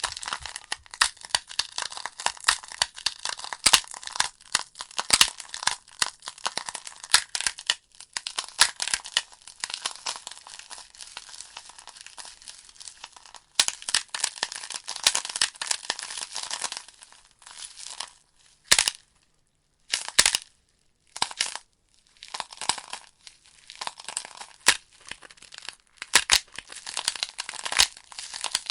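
Burning logs in a fireplace crackling, with a dense run of irregular pops and snaps. About two-thirds of the way through the crackling thins to a few isolated sharp pops with short lulls between them, then picks up again.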